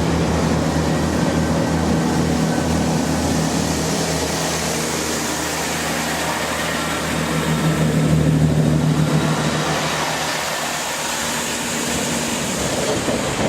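Class 165 diesel multiple unit's diesel engine running, a steady low hum that grows louder about eight seconds in and then eases off.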